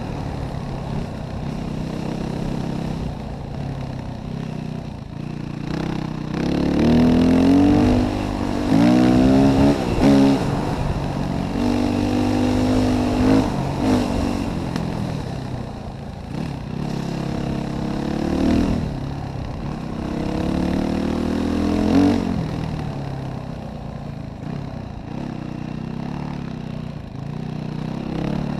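Yamaha WR450F single-cylinder four-stroke enduro motorcycle engine revving up and down again and again as the throttle is opened and shut, loudest in a run of revs about a third of the way in.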